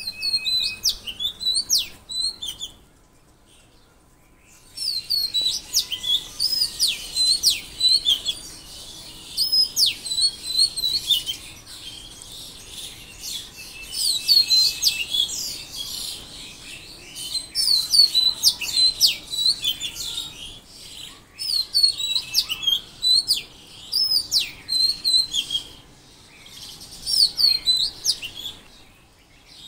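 Songbirds singing: bouts of quick, sharply swooping chirps, each bout a second or two long and repeated every few seconds.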